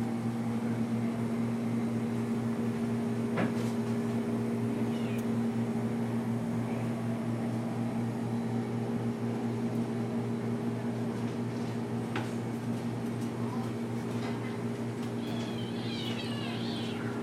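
A steady low mechanical hum throughout, with faint high-pitched kitten mews near the end.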